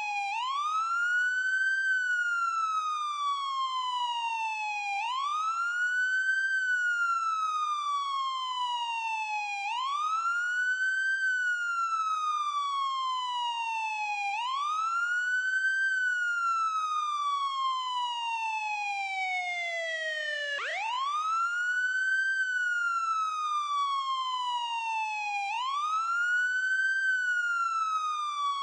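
Ambulance siren wailing: each cycle sweeps up quickly and then glides slowly down, repeating about every five seconds. About two-thirds through, one fall drops lower before the next rise.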